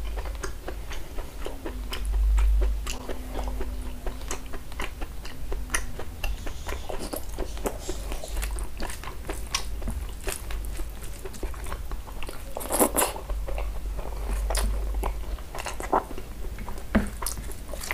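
Close-miked eating sounds of a person chewing mutton curry with rice: many small wet mouth clicks, with one louder stretch about two-thirds of the way through.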